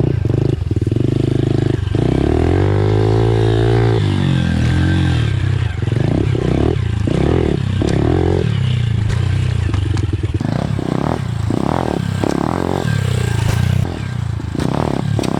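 Pit bike engine being ridden over dirt-track jumps, revving up and falling back. In the second half come short, repeated throttle bursts.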